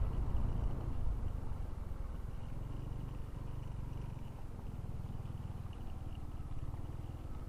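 Motorcycle engine running at low revs with an even, fast exhaust pulse, easing off over the first couple of seconds and then holding steady as the bike slows.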